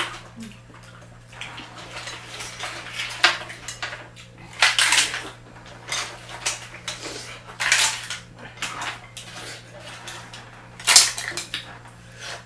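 Dishes and utensils clattering and scraping at a meal, with several louder rattling bursts spread through, over a steady low hum.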